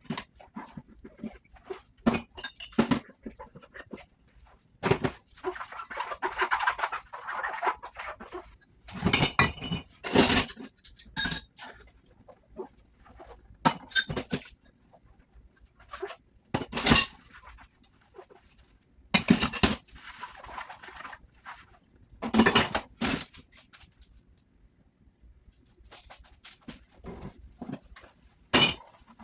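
Dishes and utensils knocking and clinking as they are handled and washed by hand, in irregular bursts with short pauses between, and a longer stretch of rubbing noise about five to eight seconds in.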